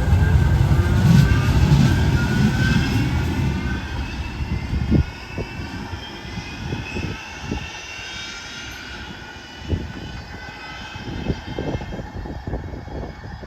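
Manchester Metrolink tram, a Bombardier M5000, pulling away and accelerating: its traction-motor whine rises steadily in pitch over the first several seconds while the low rumble fades as it draws off. Scattered wheel knocks on the rail joints follow as it moves away.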